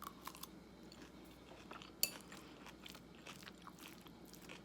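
A person chewing and biting crunchy food close to the microphone, with scattered small crunches and one sharper crunch about two seconds in.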